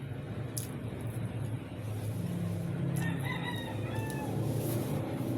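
A faint call of a few drawn-out, slightly falling tones about three seconds in, over a steady low hum that swells about two seconds in.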